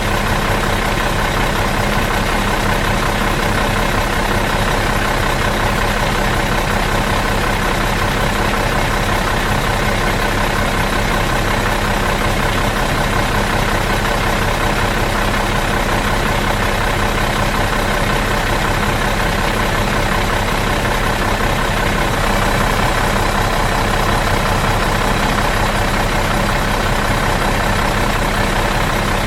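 Bus engine idling steadily in neutral, a constant even drone with a fixed hum that does not change.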